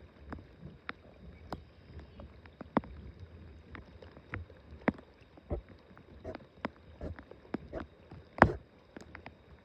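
Irregular light taps and knocks in a small fishing boat, with one louder knock near the end, over a low rumble of water and wind.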